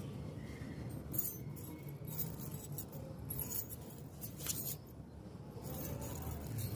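A few light clinks and taps, like small hard objects being handled, over a low steady hum.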